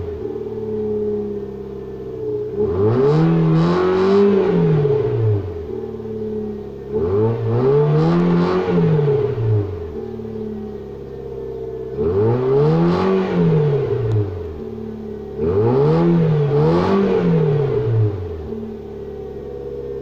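2002 Nissan Sentra engine, stock exhaust and intake, revved from idle four times in about 20 seconds. Each rev rises and falls in pitch over two to three seconds, some with a quick double blip, and it settles back to a steady idle between them.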